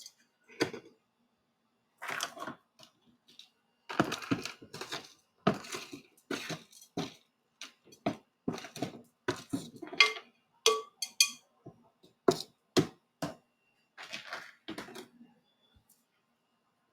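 Potting mix being scooped and tipped into a plant pot: an irregular run of short gritty scrapes and rustles with a few sharper knocks, stopping near the end.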